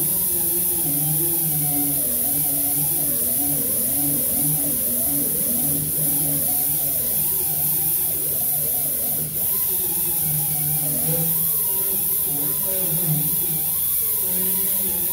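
Power grinder working body sheet metal, its pitch wavering up and down as the disc bites and eases, over a steady high hiss.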